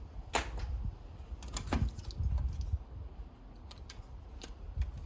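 Computer parts being handled inside an opened iMac: scattered light clicks and knocks over a low handling rumble.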